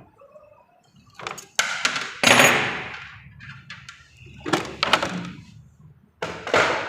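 Plastic right-hand side panel of a Honda Shine motorcycle being worked loose and pulled off: a series of knocks, clunks and scrapes, the loudest about two seconds in.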